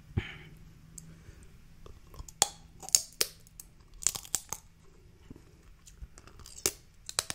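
Shellfish shells being cracked and snapped open by hand: a run of sharp, irregular cracks and crunches, with faint crinkling and tearing between them.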